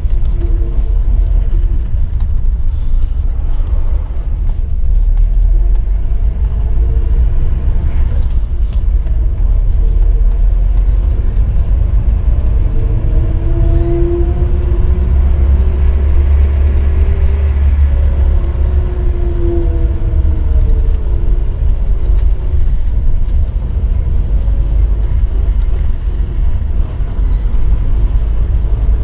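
ZMZ-402 inline-four petrol engine running with a knock while the vehicle is driven, under a steady low rumble. The engine pitch rises and falls twice in the middle, and there are a few short clicks early on.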